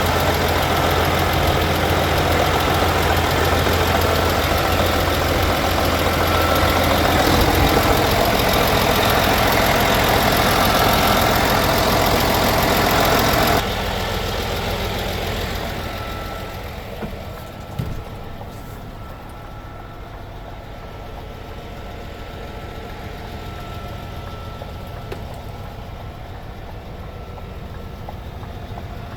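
Scania R480 truck's inline-six diesel engine idling, loud and steady. About 13 seconds in the sound drops sharply to a quieter, more muffled steady running with a faint whine.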